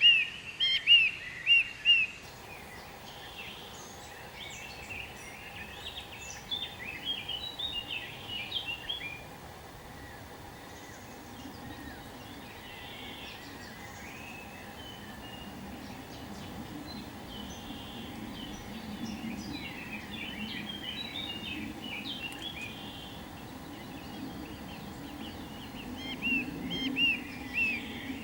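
Several wild birds calling and chirping over steady outdoor background noise, with a loud series of short repeated notes at the start and again near the end and looser twittering in between.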